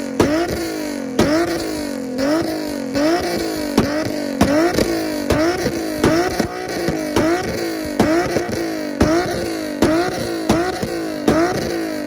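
Infiniti G37's V6 engine revved in repeated throttle blips, about one every three-quarters of a second: each time the revs jump up sharply with a crack and then fall away. Near the end the revs drop and settle.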